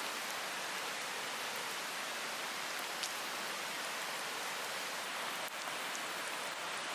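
Food frying in a skillet over a wood fire: a steady sizzling hiss with a couple of small pops.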